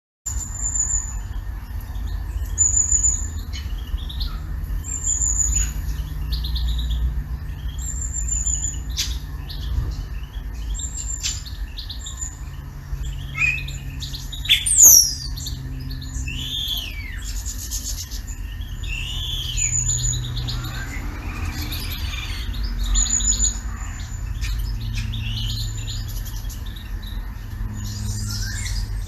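Birds chirping and calling: a short high trill repeats about every two seconds among varied chirps, with one loud falling whistle about halfway through. A few sharp clicks sit in among the calls, over a steady low rumble.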